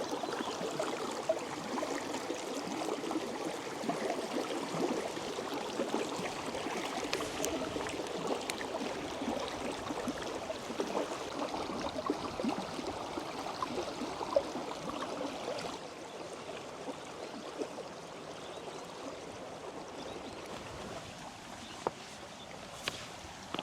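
Creek water running steadily over its bed. It gets quieter about two-thirds of the way through.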